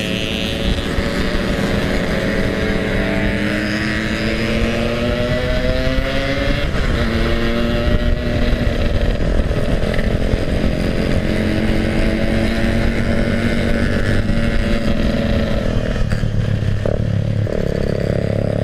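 Yamaha RX-King's 135 cc two-stroke single-cylinder engine under way, its revs climbing for about six seconds, then a gear change and steady running, dropping off briefly near the end before picking up again. Wind rushes over the microphone underneath.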